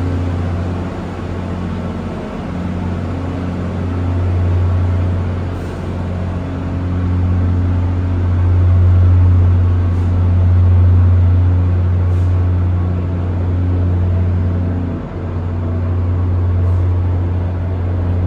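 Heavy road vehicle, likely a city bus, running with a deep steady drone that swells and eases in loudness.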